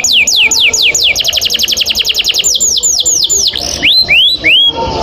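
Domestic canary singing a long rolling song. It repeats quick falling notes, speeds into a fast, even trill about a second in, then slows to a few separate rising notes near the end.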